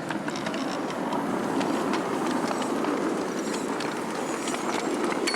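Miniature railway train running on the track, a steady rumble of the wheels with frequent sharp clicks as they cross the rail joints, growing a little louder after the first second.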